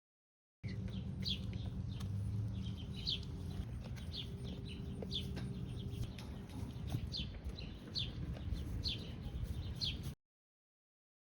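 Birds chirping: short, high chirps repeated about every half second over a steady low rumble. The sound starts just after a brief dead silence and cuts off shortly before the end.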